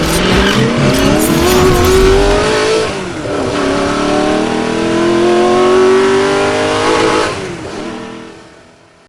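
Car engine accelerating hard, rising in pitch, dropping briefly at a gear change about three seconds in, then rising again through the next gear before fading away.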